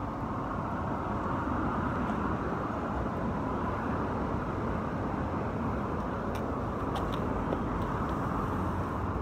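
Steady roar of highway traffic, an even wash of passing cars, with a few faint ticks late on.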